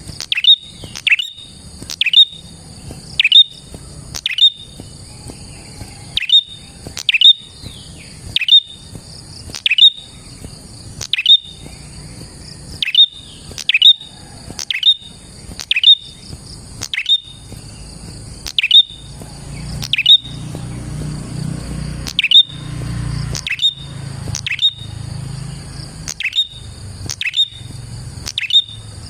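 Prenjak calling: a long series of sharp, quickly falling chirps, about one a second, over a steady high insect drone.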